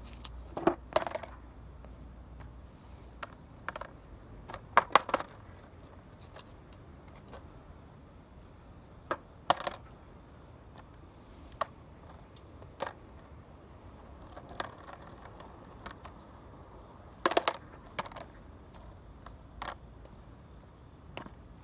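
Scattered sharp clicks and knocks of hard objects, irregularly spaced and some in quick pairs or clusters, over a faint steady background.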